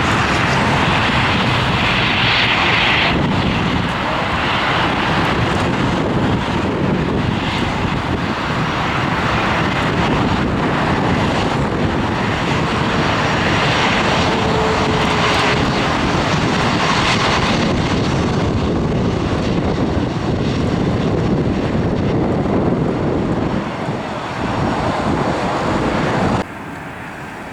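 Airliner engines running loud and steady as the aircraft passes close by, cutting down abruptly near the end.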